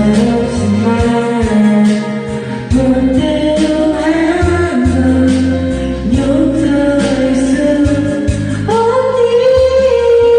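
Karaoke: a person singing along to a karaoke backing track with a steady bass line, holding one long note near the end.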